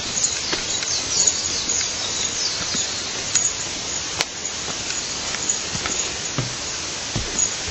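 Outdoor ambience: a steady high hiss with faint bird or insect chirps and scattered sharp clicks, and a few low thumps near the end.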